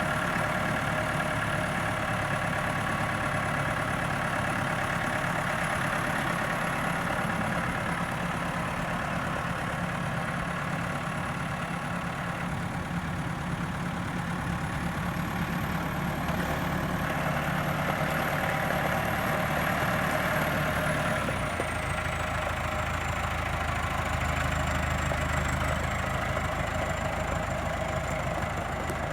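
Case IH CX90 tractor's Perkins 4.0 four-cylinder diesel running steadily at idle, with a thin high whine over it; about three quarters of the way through, the engine speed drops a little and the whine falls in pitch.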